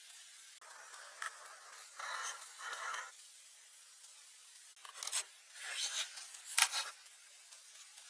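A series of short scraping strokes in two bunches of about three, the loudest near the end.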